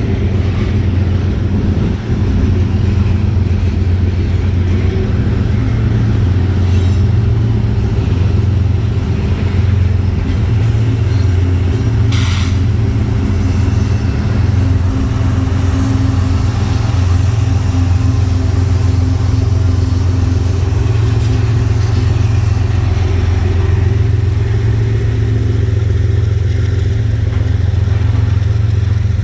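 A long CSX mixed freight train passing close by, its cars rolling steadily on the rails with a continuous heavy rumble. A brief, sharper metallic sound stands out about twelve seconds in.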